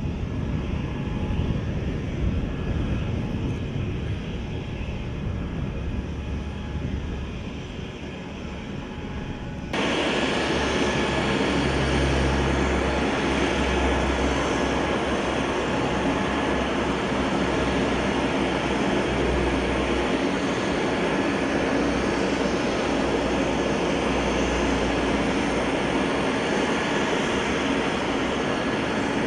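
Large jet cargo aircraft's engines running, a steady rumble with no speech. About ten seconds in the sound cuts abruptly to a louder, fuller engine noise.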